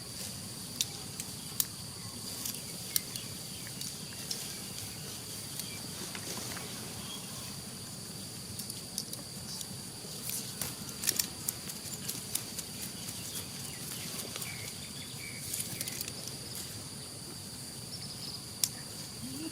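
Insects droning at a steady high pitch, with scattered sharp clicks over a low background hiss.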